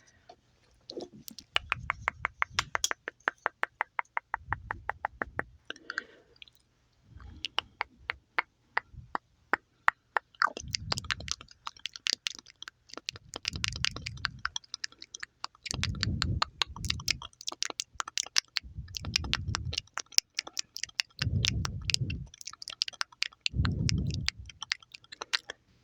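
Wet mouth sounds: rapid runs of tongue and lip clicks and smacks, several a second, with low muffled swells coming every couple of seconds in the second half.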